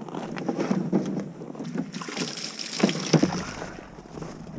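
Footsteps on wet, slushy ground: a series of irregular crunching, squelching steps, with a gust of wind on the microphone in the middle.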